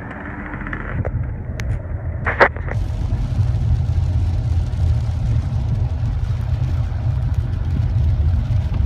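Steady low rumble of a car driving in heavy rain, with an even hiss over it. There is one brief sharp sound about two and a half seconds in.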